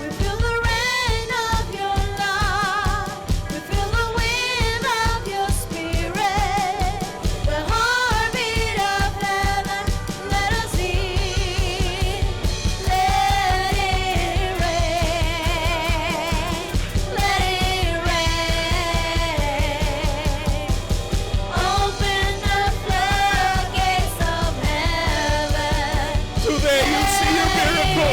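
Worship song: singers holding wavering, vibrato-laden notes over a band with a steady beat.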